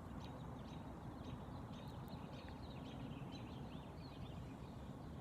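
American robin's alarm call: a run of short, sharp chip notes, several a second, with other small birds chirping. A steady low rumble underneath.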